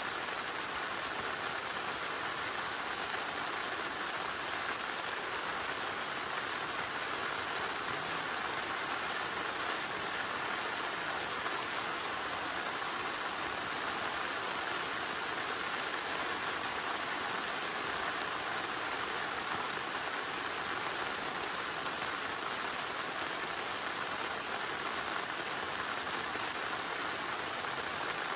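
Steady rain falling, an even hiss with a few single drops standing out.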